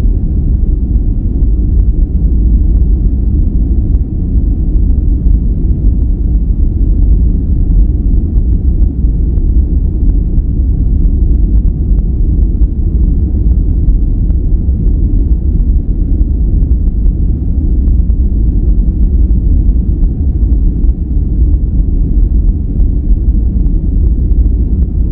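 Steady relaxation noise track, billed as white noise, but deep and rumbling: most of it is low, with no hiss on top. It holds level with no changes.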